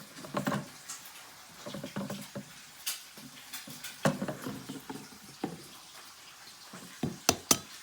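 Raw eggs being cracked by hand: scattered taps and crackles of the shell with small wet sounds as the egg slides out, and two sharp taps near the end.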